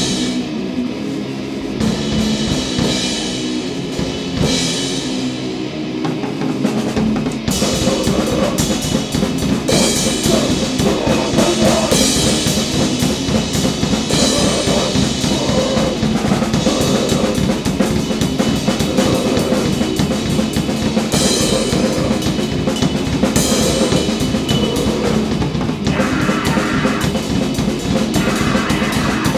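Grind/noise band playing loud, distorted music with drum kit, cymbals and guitar. The sound is thinner for the first several seconds, then the full band comes in hard at about seven seconds with fast, dense drumming.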